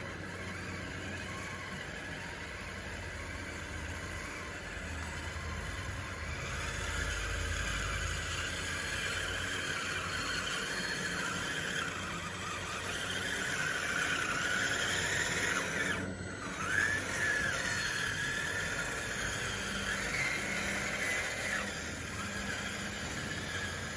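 Radio-controlled model bulldozer pushing dirt: the electric drive whines and the tracks squeal. The pitch wavers up and down, louder through the middle with a brief break about two-thirds of the way through.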